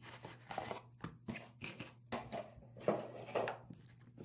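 Hands handling a clear plastic food container and a squishy toy: a string of short, irregular plastic clicks, knocks and rustles against the tabletop.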